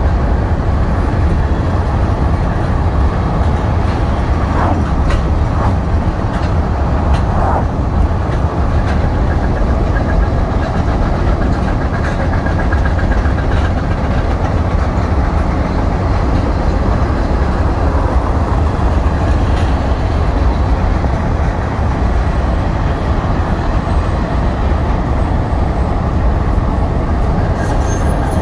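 Union Pacific maintenance-of-way weed sprayer train rolling past, a loud, steady low rumble of wheels on rail.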